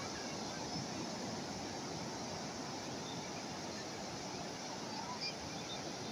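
Calm sea waves washing steadily on the shore, an even hiss of surf.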